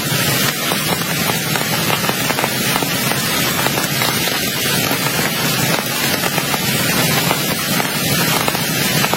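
Heavy rain pouring, a loud steady hiss with many small drop hits throughout.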